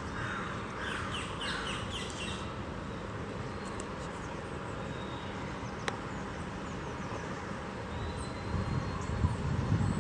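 A crow cawing in a quick series of harsh falling calls, stopping about two and a half seconds in, over steady outdoor background noise. Low rumbling near the end.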